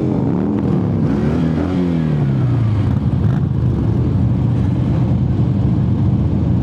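V-twin motorcycle engine heard from the rider's seat, its pitch rising and falling with the throttle for the first two seconds or so, then settling into a steady drone at cruising speed, with wind rushing past.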